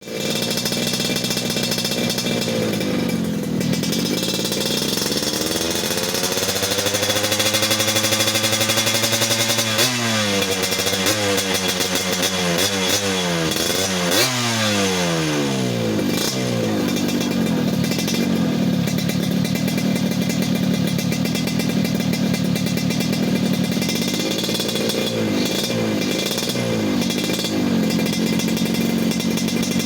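Two-stroke Yamaha RX King–type motorcycle engine running through an aftermarket racing exhaust. The revs dip and then rise slowly in the first few seconds, then come a string of quick throttle blips around the middle, then steady running, and a few more blips near the end.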